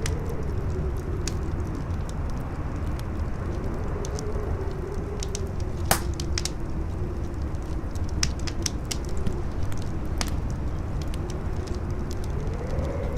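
Campfire crackling with scattered sharp pops, the loudest about six seconds in, over strong howling wind that rumbles low and whistles in a slowly wavering tone.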